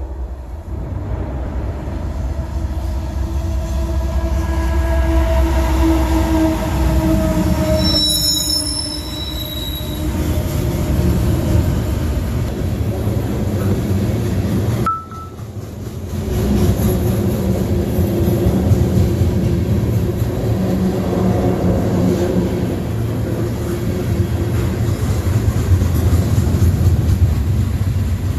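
CSX freight train rolling past, a steady low rumble of locomotive and cars with drawn-out wheel squeal; a burst of high, shrill squealing about eight seconds in, and the sound dips briefly around halfway.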